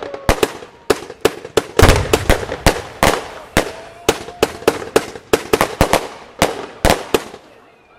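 Firework cake firing a rapid, irregular string of sharp bangs, two to three a second, each shot ringing out briefly; the shots die away after about seven seconds.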